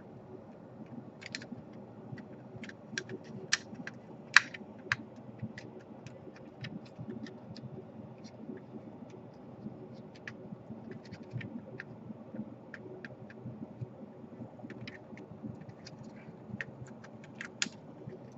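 Irregular light clicks and taps of a laptop's plastic parts and small tools being handled, with one sharper click about four seconds in, over a steady low hum.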